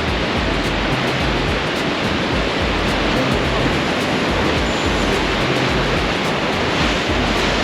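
Steady rushing roar of Niagara Falls' water pouring down close by, a dense, unbroken noise.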